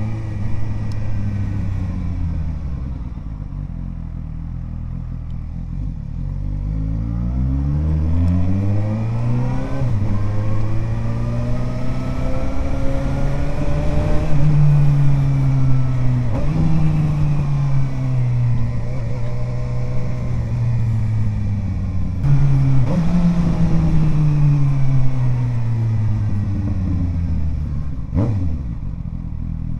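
Suzuki GSR 750 inline-four engine through an aftermarket Ixrace Z7 exhaust, accelerating in repeated rising pulls, each broken by a quick drop in revs as it shifts up with the quickshifter. Near the end the revs fall away as the rider eases off.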